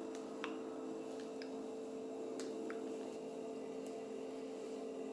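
A steady low drone of two held tones, with a few faint clicks over it.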